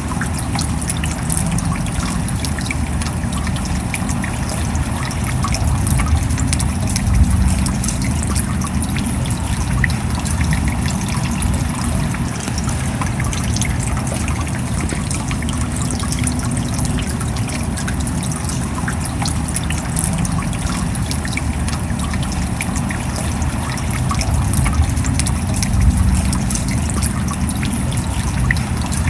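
Steady rain: a dense patter of drops over a continuous trickle of running water, with a low rumble underneath and slight swells about a quarter of the way in and again near the end.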